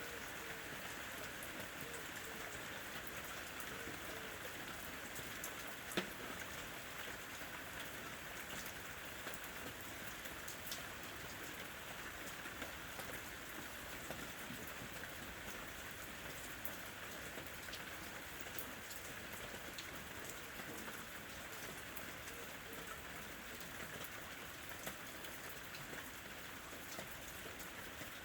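Steady rain falling, with scattered drips and one sharp tap about six seconds in.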